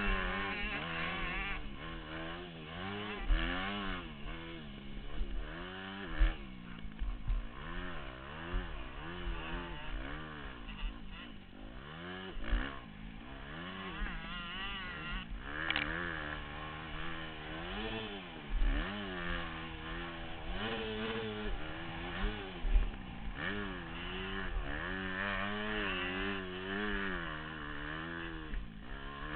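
Motocross bike engine, heard from an onboard camera, revving up and dropping off over and over as the bike is ridden round the track. There are a few low thumps along the way.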